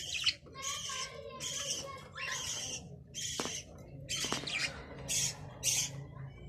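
Budgerigars chattering: a string of short, high, scratchy chirps and squawks, about one a second with gaps between.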